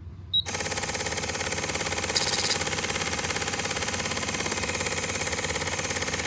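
Truck engine idling steadily with a fast, even pulse, starting abruptly about half a second in. A brief hiss about two seconds in.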